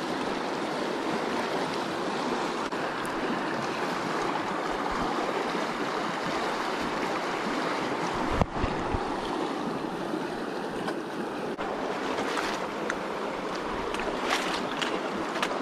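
Mountain creek water rushing steadily over rocks, with a single sharp knock about halfway through.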